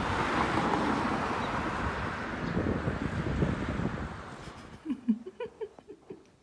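Wind buffeting the microphone, a heavy steady rush that fades away after about four seconds. Near the end come a few short, faint pitched sounds.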